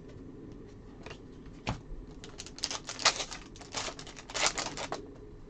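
Prizm golf trading cards being handled and flipped through a stack: a quick run of crisp clicks and snaps, densest and loudest between about two and five seconds in.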